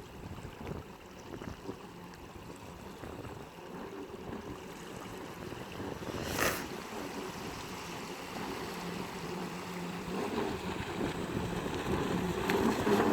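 Radio-controlled bait boat running on the water: a faint steady motor hum under water splashing and wind on the microphone, with one sharp knock about six seconds in.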